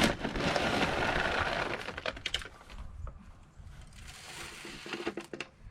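Sunflower seeds poured into a bird feeder: a dense rattle of many small seeds for about the first two and a half seconds, then thinning to scattered clicks.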